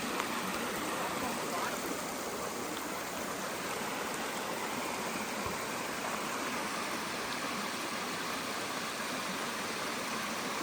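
A river rushing steadily, running high and fast with rainwater.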